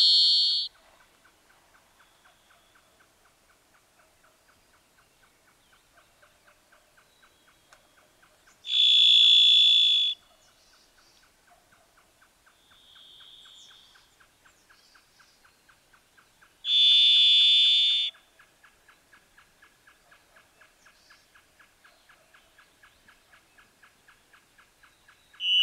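Varied thrush singing: single long, held notes about a second and a half each, spaced roughly eight seconds apart, each on a different pitch, with a fainter note between them. The bird's song is characteristic of the coniferous forests of Alaska.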